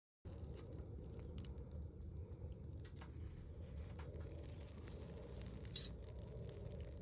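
Campfire crackling, with scattered sharp pops over a steady low rumble; the sound cuts in abruptly just after the start.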